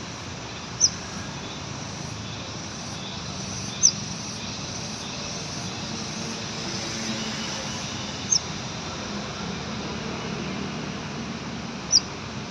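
A konin bird giving four short, sharp, high call notes a few seconds apart, each dropping slightly in pitch, over a steady background rumble.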